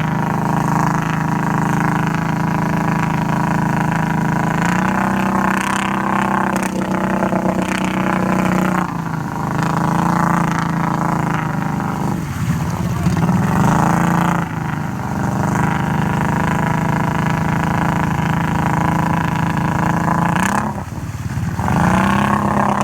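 Can-Am off-road vehicle's engine running hard at steady revs, with the engine note falling away and climbing back up several times as the throttle is let off and reapplied.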